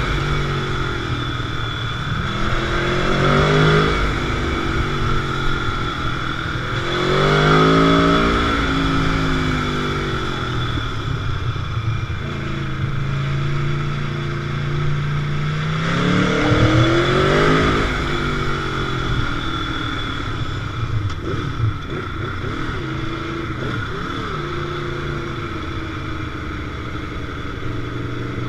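Motorcycle engine under way, revving up and easing off repeatedly, with its pitch rising in surges about three, seven and sixteen seconds in and running steadier near the end.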